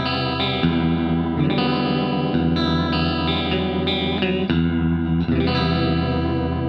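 Electric guitar played through a TC Electronic Corona Chorus pedal set to a custom Toneprint: sustained chords change every second or so, their tone wavering under the pedal's modulation. The last chord rings on near the end.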